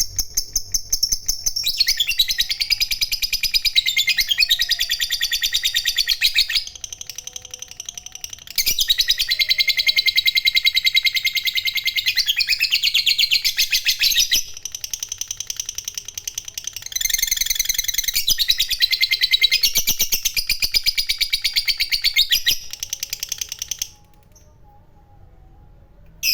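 Fighter lovebird giving its long 'ngekek' chatter: a fast, high-pitched run of repeated notes, kept up in three long loud stretches with softer chattering between them, stopping about 24 seconds in.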